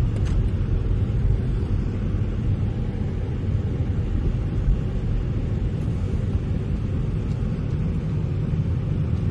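Steady low rumble of a car driving, heard from inside the cabin: engine and road noise with no sudden changes.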